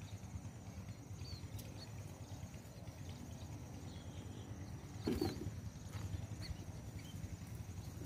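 Faint, short, high chirps of small birds at the trap, a few scattered through, over a steady low hum. About five seconds in there is one louder knock or rustle.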